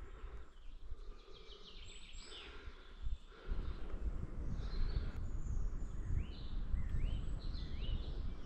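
Small birds chirping, with short rising whistled notes and quick trills. A low rumbling noise comes in about a third of the way through and continues under the birdsong.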